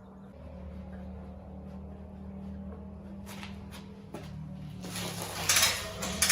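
Spilled gasoline being wiped up by hand around a lawnmower's carburettor: a few light knocks, then a louder stretch of rubbing and rustling near the end, over a steady low hum.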